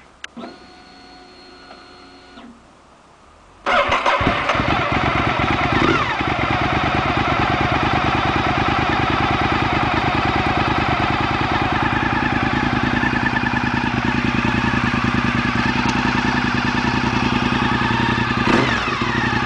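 Honda RC51's V-twin with a Sato full exhaust being started: a faint steady whine for about two seconds, then the engine fires about three and a half seconds in and settles into a loud, steady idle. It gives a brief blip of revs near the end.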